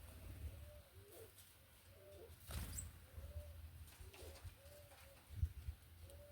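Doves cooing: a series of short, low arched coos, roughly one a second, over a faint low rumble, with a sharp click and a soft low thump partway through.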